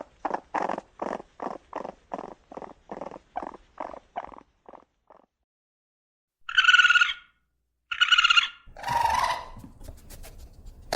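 Raccoon vocalizing: a rapid run of pulsed churring calls, about four a second, that fade away over about five seconds. After a short pause come two short high-pitched calls and then a rougher, noisier call.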